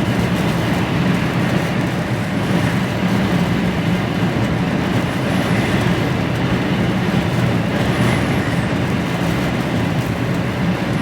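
Steady drone of an HGV truck's engine with tyre and road noise, heard inside the cab while cruising at motorway speed.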